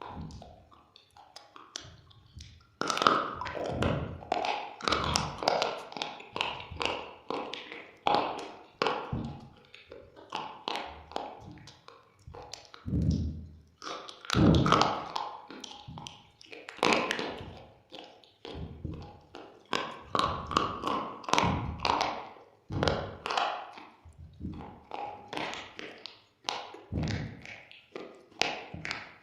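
Close-miked biting and chewing of something hard and brittle, such as slate pencil or baked clay. It makes quick, irregular crunches and cracks that start in earnest about three seconds in, with short pauses between bites.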